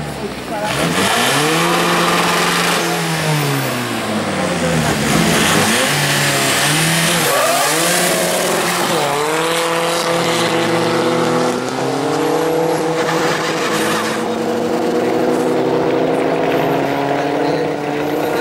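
Tuned car engine revving hard at a drag strip, its pitch swooping up and down several times. From about ten seconds in it settles into a long, slowly climbing note as the car pulls away.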